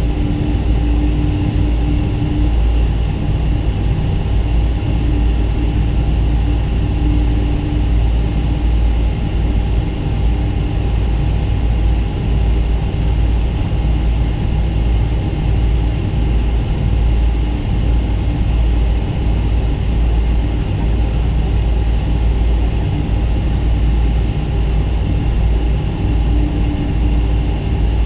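Cabin noise of a Boeing 777-200 on the ground before takeoff: a steady, loud, low rumble with a constant engine hum. The level does not rise or fall.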